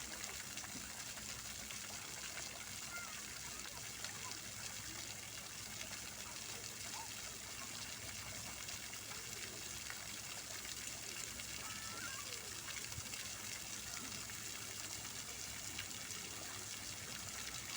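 Fountain water splashing and pouring steadily in an even, unbroken rush.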